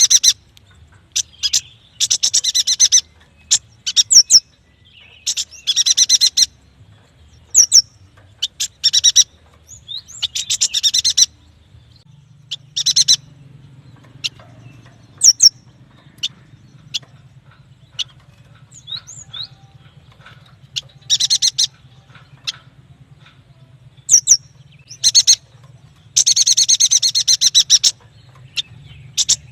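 Yuhina singing: rapid high trills about a second long come again and again, with single sharp chirps and short rising squeaks between them. A faint low hum comes in about twelve seconds in.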